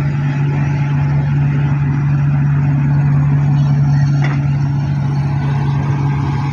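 A heavy diesel engine running steadily, a loud, even low hum with no change in pitch.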